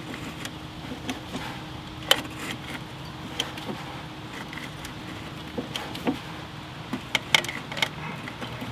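Scattered sharp metal clicks and clinks from hand work on a VW Beetle engine, over a steady low hum. The engine had been sitting for years and is being turned by hand and oiled.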